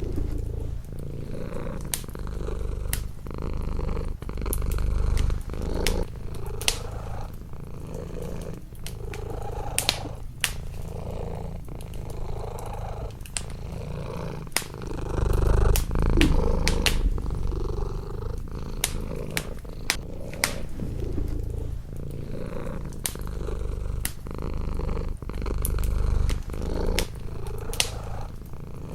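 Domestic cat purring close up, the low purr swelling and easing with each breath every couple of seconds, over a wood fire crackling with frequent irregular sharp pops.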